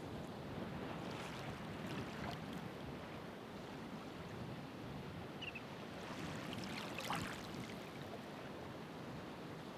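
Ocean surf washing on the shore: a steady rush of water with the crackle and fizz of breaking waves, building about a second in and again, louder, around seven seconds in.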